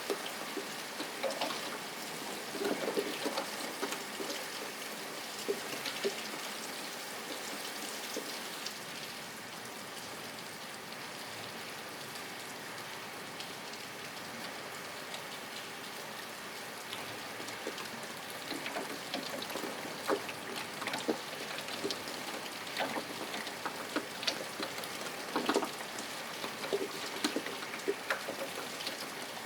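Steady rain falling on a surface: an even hiss with many separate drops heard as short ticks, a little busier in the first few seconds and again in the last ten.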